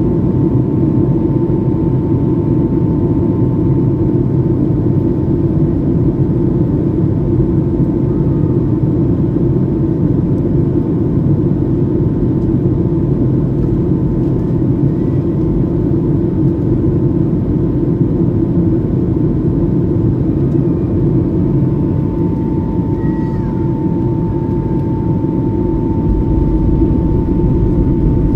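Jet airliner on its landing approach: a steady low rumble of engines and rushing air with a thin, steady whine above it.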